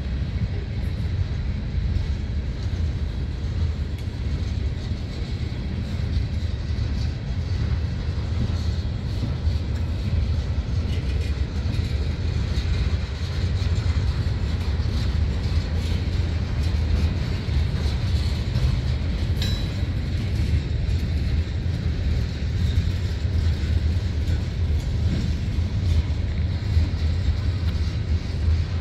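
Freight cars of a manifest train rolling past, covered hoppers and tank cars: a steady rumble of steel wheels on the rails, with faint high squeals around the middle.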